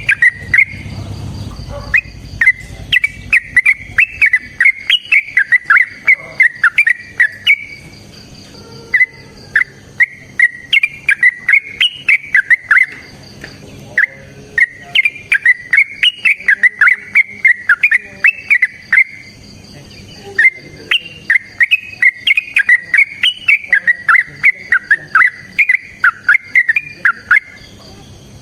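Yellow-vented bulbul singing long, rapid runs of loud chattering, bubbling phrases, broken by brief pauses.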